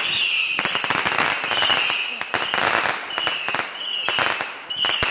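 Consumer fireworks crackling: a fast, dense run of small sharp pops and bangs that goes on without a break.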